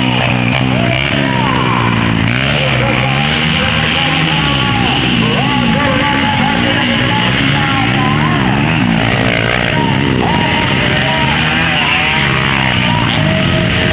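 Several motocross bike engines revving, their pitch rising and falling as they overlap, with music playing at the same time.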